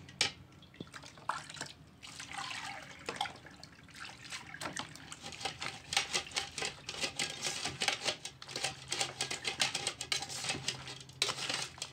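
Warm water being poured over baobab seeds and the seeds stirred through it, irregular splashing with many small clicks as the hard seeds knock together.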